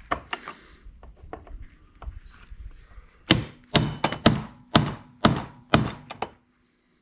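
Cold chisel struck with a hammer to split a seized, rounded-over steel hub nut on a belt tensioner bolt. A few light taps, then about eight sharp metallic blows at roughly two a second, with a faint ring behind them.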